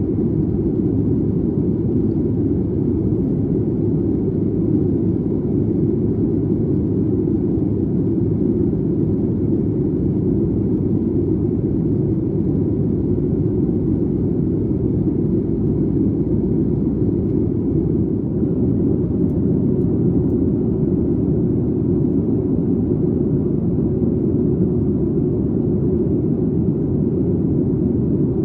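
Steady low rumble of a Boeing 737 MAX 8's cabin in flight, with engine and airflow noise heard from a window seat just behind the wing. It stays even throughout, with no changes in power.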